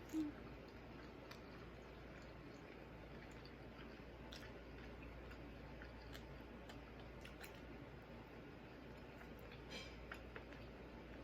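Faint chewing with scattered soft mouth clicks from someone eating barbecued pork baby back ribs.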